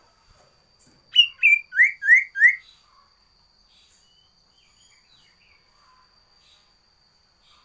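A sirtu songbird gives one quick phrase of five sharp whistled notes about a second in: two short high notes, then three rising sweeps.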